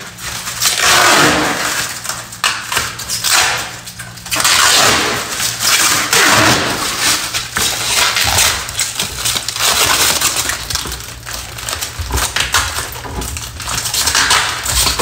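Protective plastic film being peeled off a brushed stainless-steel refrigerator and crumpled: loud rustling and crinkling in several long stretches.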